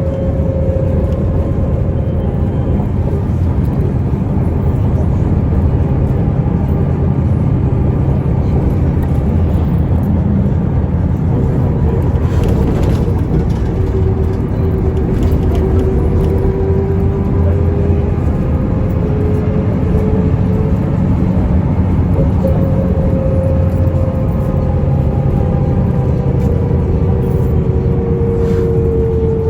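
Mercedes-Benz O405N2 city bus heard from inside the cabin while under way: a steady low engine and road rumble, with a mechanical whine that drifts slowly up and down in pitch.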